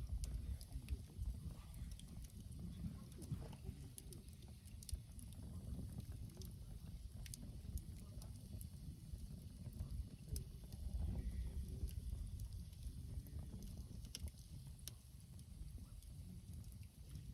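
Wood campfire in a Coleman Fire Disk burning and crackling, with scattered sharp pops and ticks over a steady low rumble.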